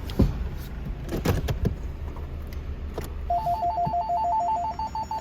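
A mobile phone ringtone starts about three seconds in: a fast run of short beeps at two pitches. Under it is a low rumble, with a few sharp knocks in the first two seconds.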